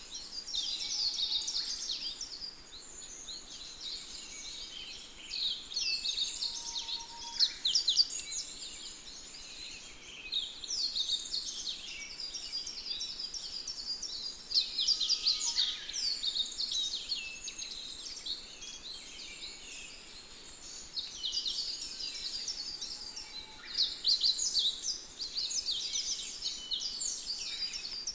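A chorus of small birds chirping and singing together: a dense, unbroken stream of quick, high chirps and twitters.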